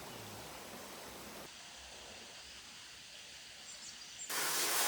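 Steady outdoor background noise that drops to a quieter hiss about one and a half seconds in, then a brief loud rush of noise near the end.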